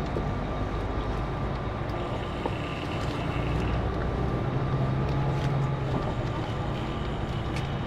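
Scania K410CB coach running: a steady low engine and road rumble with a faint steady whine and a few light clicks. The low engine note grows stronger for a few seconds in the middle.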